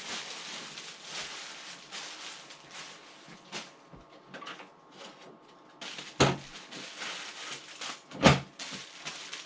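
Cardboard and plastic packaging being handled and pulled apart, rustling, with scattered knocks and two louder thumps about six and eight seconds in.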